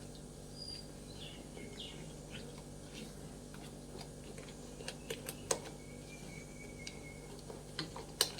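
A spoon clicking and tapping against a bowl while stirring a thick masala marinade, with sharp ticks that come more often in the second half and the loudest near the end. Faint bird chirps sound in the background early on, with a thin high whistle later.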